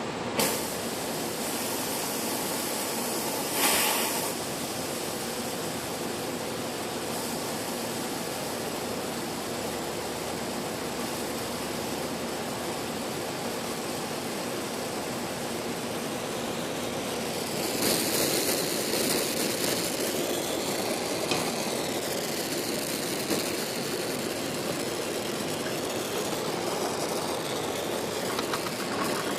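Brazing torch flame burning steadily on the compressor's copper refrigerant lines. A brief louder hiss comes about half a second in and again around four seconds in, and from about eighteen seconds on the hiss grows louder and wavers.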